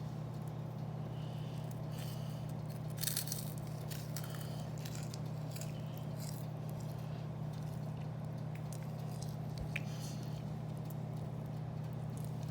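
Chewing: irregular crunchy bites and scrapes, a few seconds apart, over a steady low hum.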